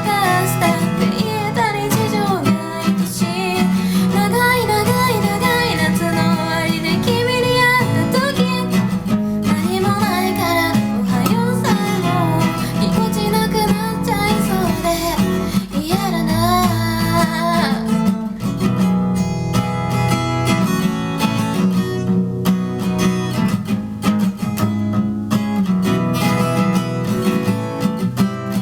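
Acoustic guitar strummed while a single voice sings over it. The singing stops about two-thirds of the way through, leaving the guitar playing alone.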